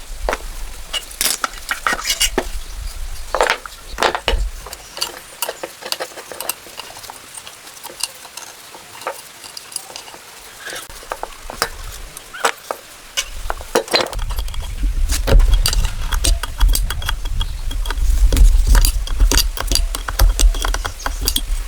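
Metal tools and engine parts clinking, tapping and scraping in irregular strokes. A low rumble joins about two-thirds of the way through.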